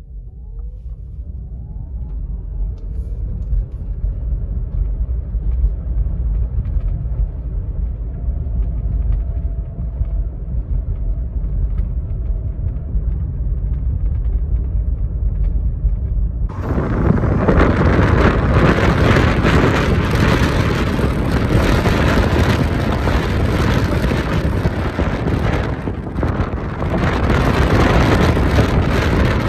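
Volkswagen e-Up electric car driving at about 50 km/h, mostly a steady rumble of tyres on the road, with a faint rising whine at the start. About halfway through, the sound jumps suddenly to a much louder, hissier rush.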